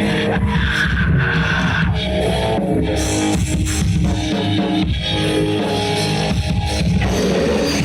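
A blackened punk band playing live: distorted electric guitars with bass and a drum kit, loud and continuous.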